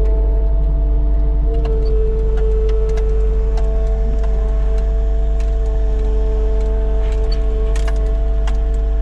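Vehicle driving, heard from inside the cab: a heavy, steady low rumble with a steady hum over it, and scattered light clicks and rattles.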